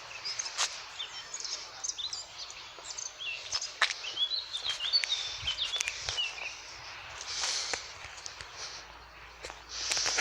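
Small birds chirping and twittering in quick, high notes over outdoor background noise, with a few sharp clicks, the loudest about four seconds in.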